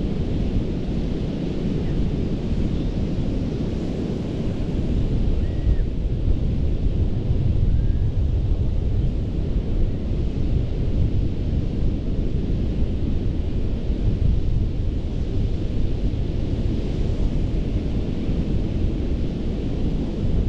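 Surf breaking on a sandy beach: a steady low rumble of waves that swells a little partway through, with wind buffeting the microphone.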